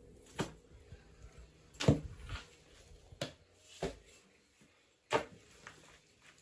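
Five sharp knocks or taps at uneven intervals, each short and clipped.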